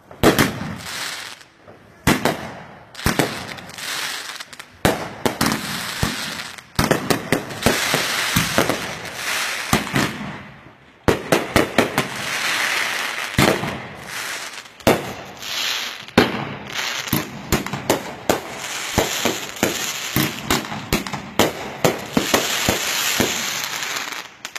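Close-up New Year's fireworks: aerial shells bursting overhead in a rapid string of sharp bangs, with long stretches of dense crackling from crackle-star bursts between them.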